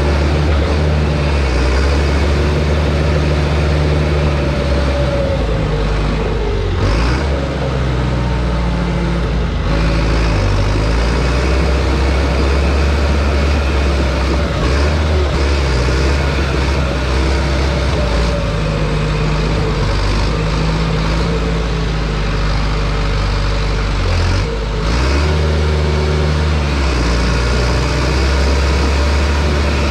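John Deere bulldozer's diesel engine running hard under load, its pitch shifting up and down as the throttle changes, with short dips about seven seconds in and again near twenty-five seconds.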